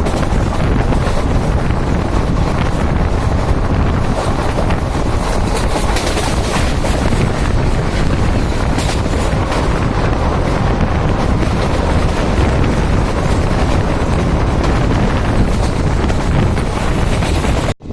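Steady loud rushing of a moving train, with heavy wind buffeting the microphone. It cuts out for a moment near the end.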